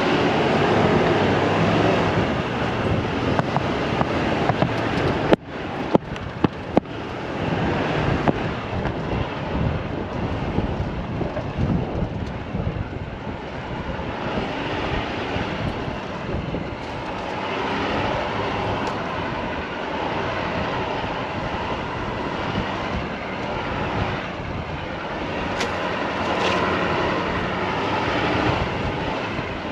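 A vehicle running, a steady noisy rumble with wind buffeting the microphone, broken by a few sharp knocks about six seconds in.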